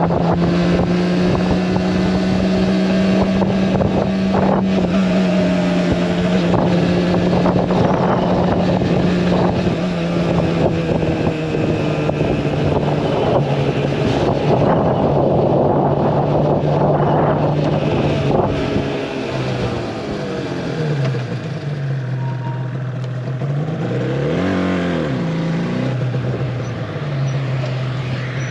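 Yamaha R1-Z's two-stroke parallel-twin engine running while the bike is ridden, with wind noise across the microphone. The engine note holds steady, drops lower about twenty seconds in, then rises and falls again in a brief rev a few seconds later.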